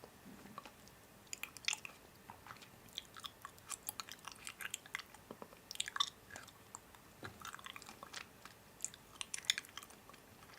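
A person chewing and biting crunchy food close to the microphone, with irregular crackling crunches throughout.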